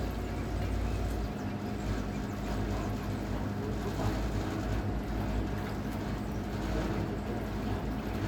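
Electric motor of a battery-powered trimaran boat humming steadily while under way, several steady tones over a low rumble.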